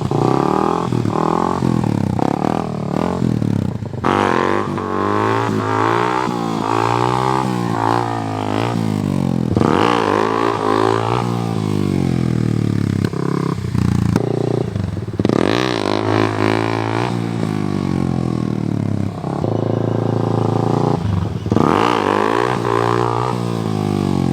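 Small dirt bike engine revving up and down over and over as it is ridden, its pitch repeatedly climbing and dropping with the throttle.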